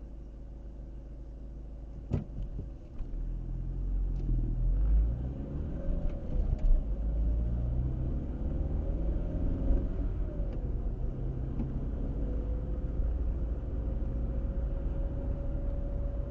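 Car on the move: after a sharp click about two seconds in, the low rumble of engine and tyres grows louder as the car picks up speed, with engine tones shifting in pitch, then settles into steady driving noise.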